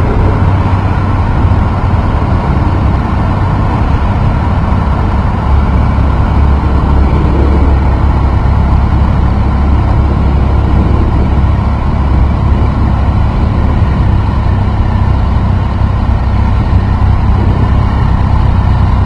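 A 2008 Triumph Street Triple's 675 cc three-cylinder engine running steadily, with no revving and a deep low drone.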